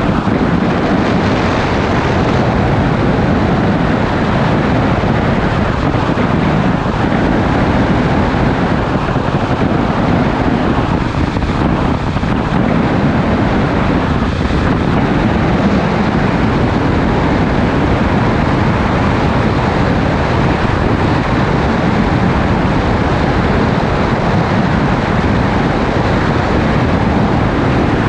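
Motorcycle cruising at a steady speed, its engine running under a constant rush of wind across the camera's microphone, with no gear changes or revving.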